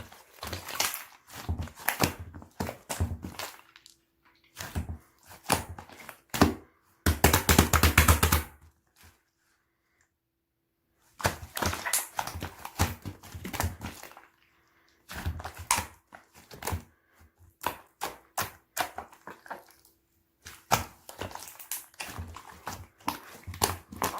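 Slime being squished and poked by hand, making quick sticky clicks and pops in bursts. A louder, denser stretch of squishing comes about seven seconds in, followed by a pause of about two seconds.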